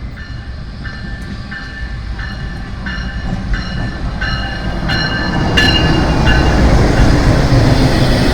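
Passenger train hauled by a GEU-40 diesel-electric locomotive approaching on the rails, its rumble growing steadily louder. A short metallic ringing note repeats about twice a second before the noise swells.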